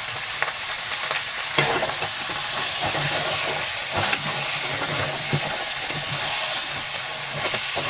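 Mud crabs frying in hot oil with ginger, garlic and onion, a steady sizzle. A few sharp clicks break in.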